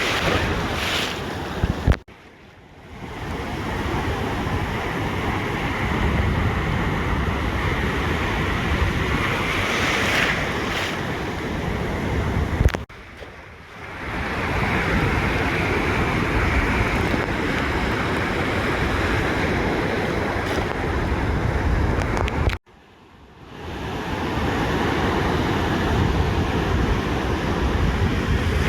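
Ocean surf washing onto a beach, with wind buffeting the microphone as a low rumble. Three times, roughly ten seconds apart, the sound cuts out abruptly after a short knock, then fades back in.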